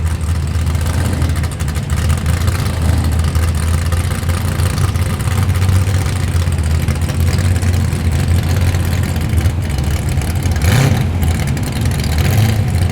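Car engines running steadily at low speed as cars roll past, a deep, even idle note throughout.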